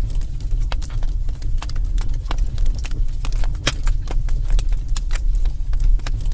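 Wood fire burning in a fireplace: a steady low rumble of the flames with irregular crackles and pops from the burning logs.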